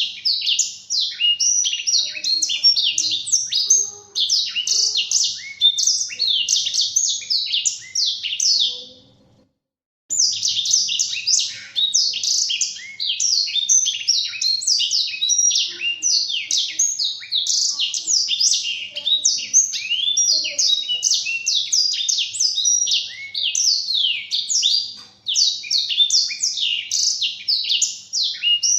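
Blackthroat (black-throated canary, a small seedeater finch) singing a long, fast, twittering song of rapid high sliding notes. The song breaks off about nine seconds in and resumes a second later.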